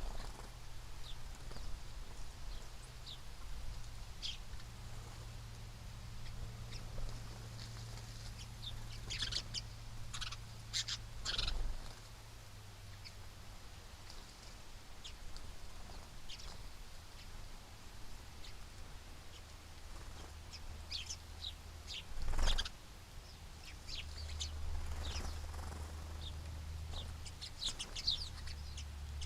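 Small birds chirping in short, scattered calls, over a steady low hum, with two brief knocks, about eleven and twenty-two seconds in.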